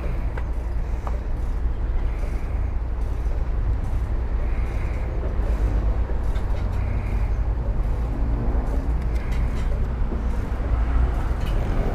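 Road traffic passing, a steady low rumble with faint clicks.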